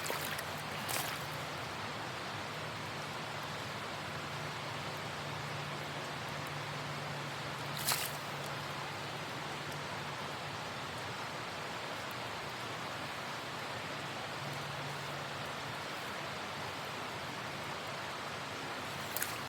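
Steady rush of stream water flowing, an even hiss with two brief sharp ticks, about a second in and about eight seconds in.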